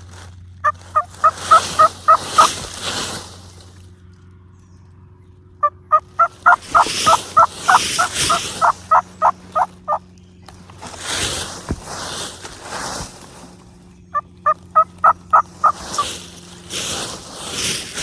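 Wild turkey gobblers gobbling four times, overlapping and following three quick runs of turkey yelps. The gobblers are answering the yelping.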